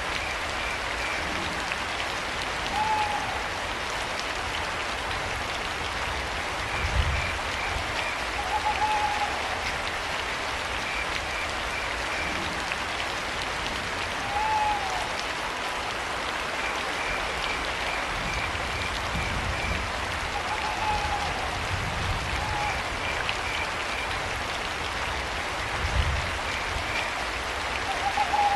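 Steady rain with crickets chirping in short pulsed trains. A short arched owl call recurs about every five or six seconds, and there are a couple of low thuds.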